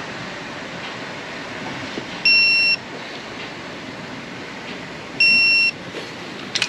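Two loud electronic beeps, each about half a second long and about three seconds apart, each a single clear high tone, over a steady background hiss.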